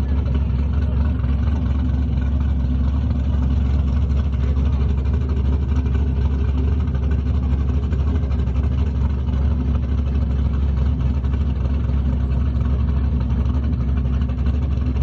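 A car engine running steadily at idle: an even low rumble that holds without revving.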